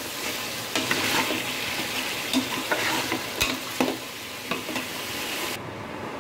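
Chicken pieces and potatoes frying and sizzling in oil in a metal pot while a metal spatula stirs and scrapes against the pot, the masala braised down until the oil separates. The sizzle drops away near the end.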